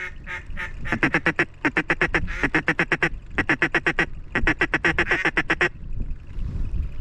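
Quick runs of mallard-style quacking, several sharp quacks a second in repeated bursts, stopping about six seconds in, over a low rumble.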